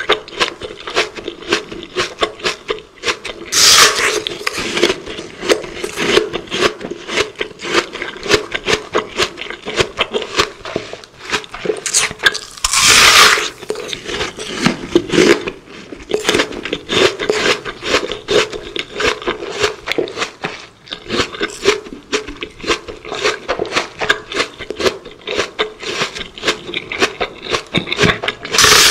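Close-miked ASMR eating sounds: rapid, crisp crunching and chewing of crunchy food, several crunches a second, with a few louder, longer bites about four and thirteen seconds in and again near the end.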